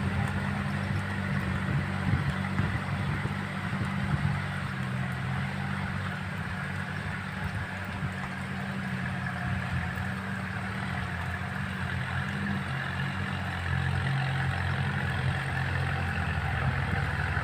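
Kubota tractor's diesel engine running steadily while rotary-tilling a rice paddy, its note shifting a little about twelve seconds in.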